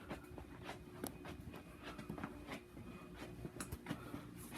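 View Fan V36L-3M 36-inch ceiling fan running on speed 4. It gives a faint steady motor hum with light, irregular clicking several times a second, which the owner puts down to the blades.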